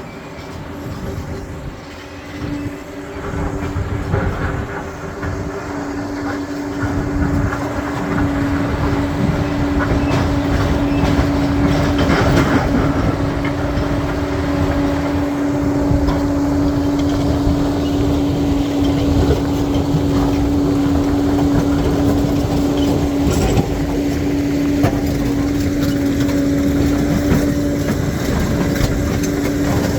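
Crawler bulldozer working: its diesel engine runs under load over the clanking of the steel tracks, with a steady whine throughout. It grows louder over the first several seconds, then holds steady.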